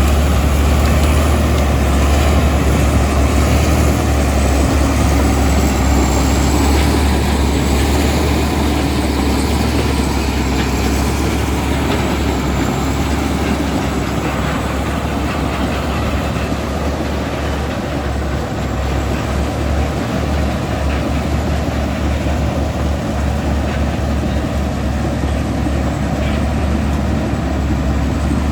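Komatsu D65E crawler bulldozer's diesel engine running steadily under load, a loud deep rumble with heavy machine clatter over it.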